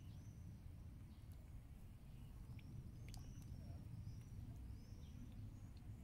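Faint outdoor ambience: short, high, arching bird chirps come every second or so over a low, steady rumble, with a couple of faint ticks about three seconds in.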